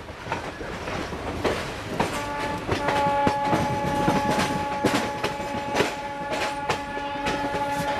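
Passenger coach wheels clacking irregularly over rail joints and points as the train rolls out. About three seconds in, a locomotive horn sounds one long, steady blast that holds to the end.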